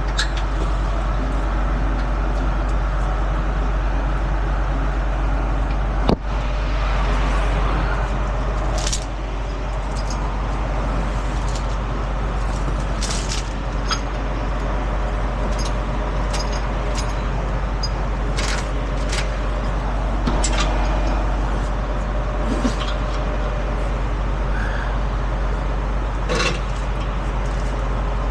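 Heavy tow truck running steadily: a low engine drone under an even noise, with scattered clicks and rattles and one sharp knock about six seconds in.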